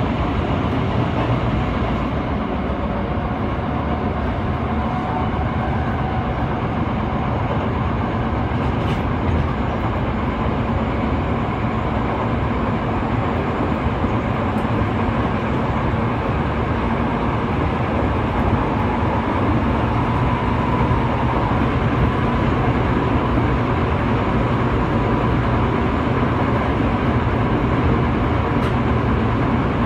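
Running noise of a Toei 5300-series electric train, heard from inside the passenger car: a steady rumble of wheels on rail while the train runs at speed. A faint whine comes in over the second half.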